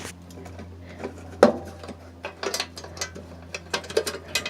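Irregular clicks and clanks of someone moving about and handling things inside a train car, the loudest knock about one and a half seconds in, over a steady low hum.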